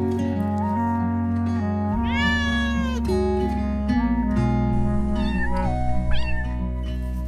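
A cat meowing over background music: one long meow that rises and falls about two seconds in, then a few short meows around five to six seconds in.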